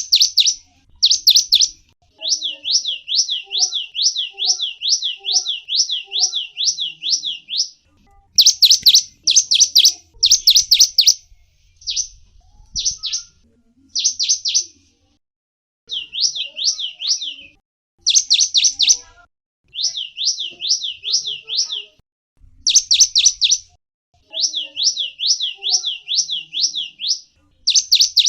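A small songbird, the bird known in Indonesia as gelatik wingko, singing. It gives phrases of repeated high, downslurred notes, about two or three a second, broken by short pauses.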